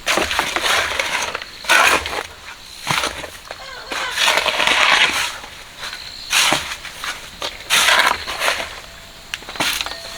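Repeated rough scraping strokes, each about a second long and irregularly spaced, typical of a shovel working gravel or concrete mix.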